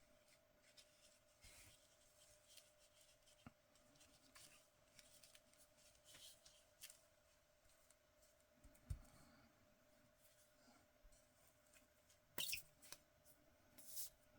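Faint rustling and handling of paper on a work surface, with small clicks, a soft thump about nine seconds in, and a few short, sharper scratchy sounds near the end.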